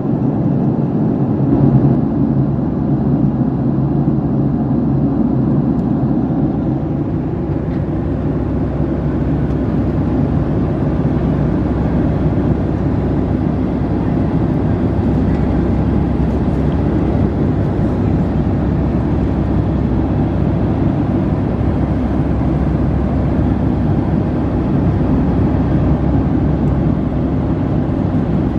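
Steady cabin noise of a Boeing 757-300 airliner: a low, even rumble of jet engines and rushing air heard from inside the cabin.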